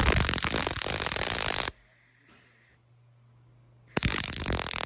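MIG welding arc crackling as silicon bronze wire is run. There are two bursts of about two seconds each, one at the start and one near the end, and each starts and stops abruptly as the torch trigger is pulled and released.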